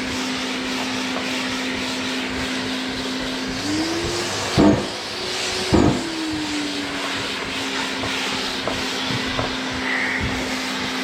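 Orbital sander with dust extraction running steadily while sanding body filler on a van panel. About three and a half seconds in its pitch rises and holds for a few seconds, with two knocks, then settles back to the steady hum.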